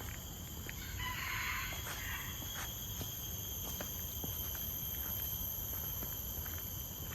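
Steady high-pitched insect drone of tropical forest, with faint footsteps on the trail. About a second in, a bird gives one call lasting about a second and a half.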